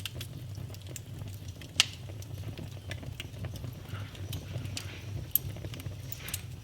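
Wood fire burning in a fireplace, crackling with irregular small pops and a low steady rumble of the flames; two louder, sharper snaps stand out, just under two seconds in and again about five seconds in.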